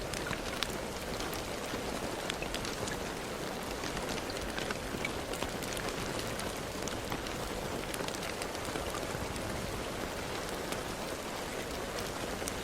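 Steady rain falling on a surface: an even hiss with many separate drops ticking through it.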